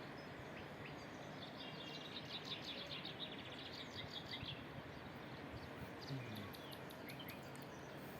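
Small birds chirping, with a run of rapid trilled notes from about a second in to about five seconds in and scattered short calls after, over a steady, faint background hiss.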